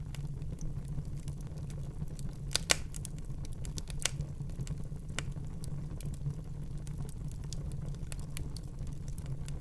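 Wood fire burning in a fireplace: a steady low rumble of the flames with scattered sharp crackles and pops, the loudest a pair of pops about two and a half seconds in.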